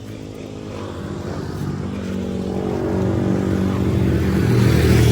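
Motorcycle engine running, growing steadily louder throughout.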